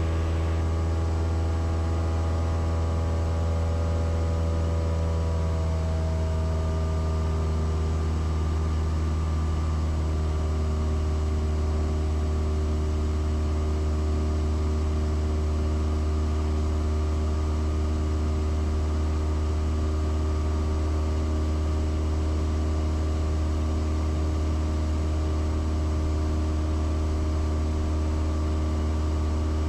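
Cessna 172S's four-cylinder piston engine and propeller droning steadily in flight, heard inside the cockpit. A few of the higher notes shift slightly in the first ten seconds, then the drone holds steady.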